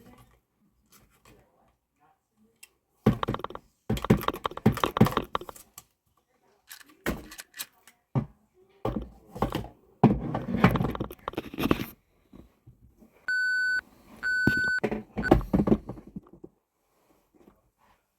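Toy garbage truck handled in bursts of plastic clattering and knocking, with two short electronic beeps a little over a second apart near the end.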